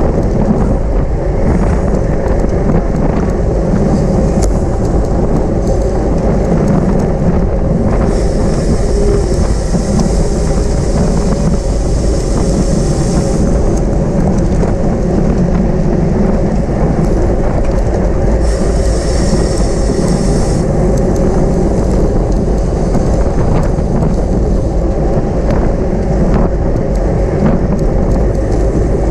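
Steady, loud wind rumble and road noise from a road bicycle ridden at race speed. A higher hiss joins it for about five seconds starting some eight seconds in, and again for about two seconds later on.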